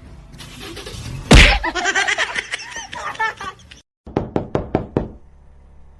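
A loud single thump about a second in, then, near the middle, a quick run of about eight sharp knocks.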